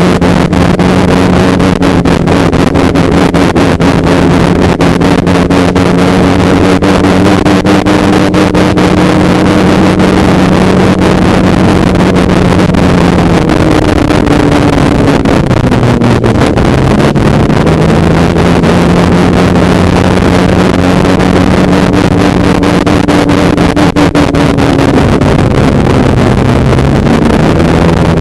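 Snowmobile engine running at a steady cruising speed, its note falling briefly about halfway through and then climbing back, with wind buffeting the microphone.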